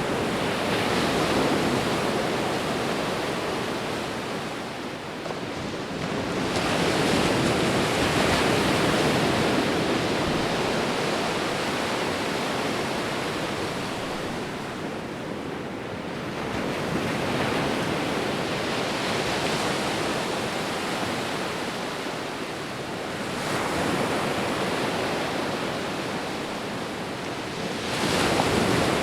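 Ocean waves breaking and washing up on a shore, a steady rush of surf that swells with each breaker, about four or five times.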